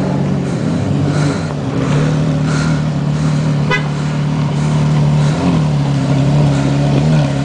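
Porsche Carrera GT's 5.7-litre V10 through AWE Tuning straight-pipe exhaust, running at steady revs with a loud, even drone. The pitch dips briefly about two-thirds of the way through and again near the end.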